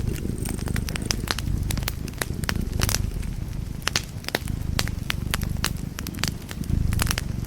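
Wood fire crackling in a fireplace: frequent sharp pops and snaps over a low, steady rumble of burning.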